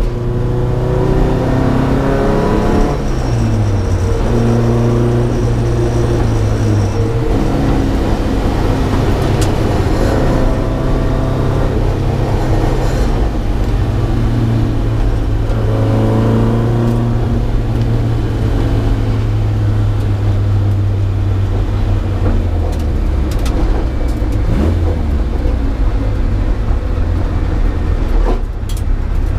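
Datsun P610 rally car engine under hard acceleration. The pitch climbs, then drops at each gear change, several times over, and runs steadier for a while later on.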